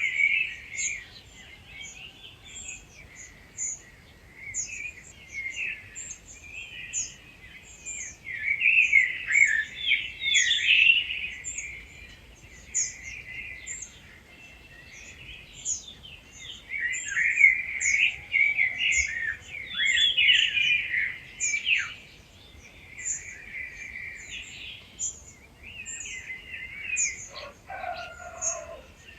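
Dawn chorus of several wild songbirds, overlapping warbling songs that swell and fade in waves, over a thin very high note repeated a few times a second.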